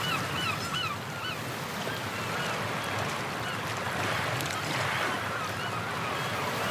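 Seaside ambience: surf washing steadily, with a quick run of repeated honking bird calls in the first second and fainter calls later.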